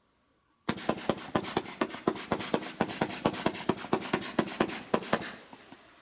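Multi-shot fan barrage firework firing its shots in quick succession, about five sharp bangs a second for roughly four and a half seconds, starting just under a second in and fading out near the end.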